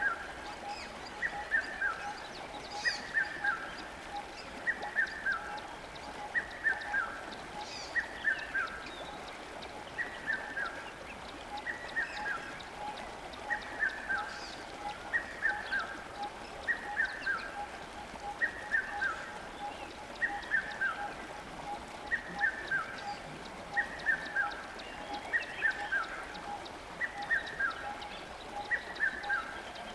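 A bird repeating a short call of a few falling notes about every two seconds, with a quicker, steady pulsing call underneath and the faint even hiss of flowing water.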